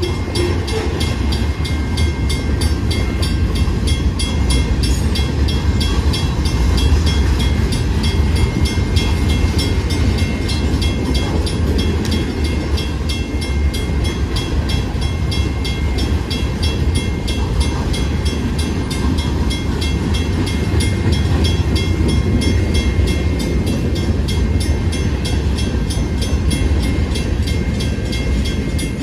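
Freight train rolling past a grade crossing: a steady low rumble of the locomotive and the cars' wheels on the rails. Over it runs a fast, even ringing with a steady high tone, typical of the crossing bell.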